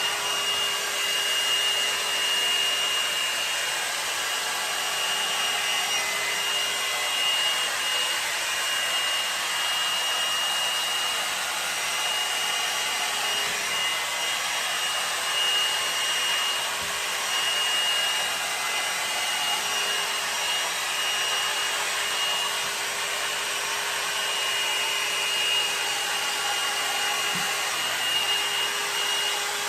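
L'ange blow dryer brush running steadily, a hot-air brush blowing through hair as it dries, with a thin high whine over the rush of air.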